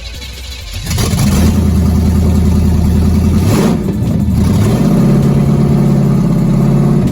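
1978 Chevy Nova's engine revved up about a second in and held at a steady pitch, dipping briefly partway through, then revved to a higher pitch and held before easing off at the end.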